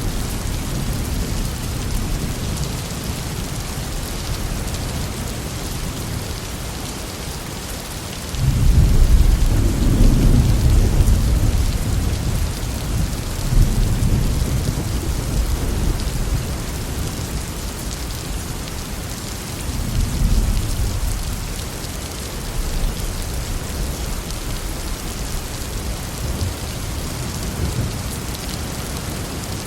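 Heavy rain falling steadily, with thunder: a long low rumble that starts abruptly about eight seconds in and rolls on for several seconds, then a weaker rumble about twenty seconds in.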